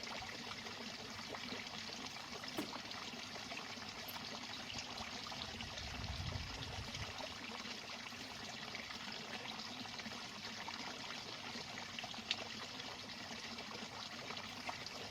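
Faint, steady roar of distant ocean surf from heavy waves, with a few small clicks.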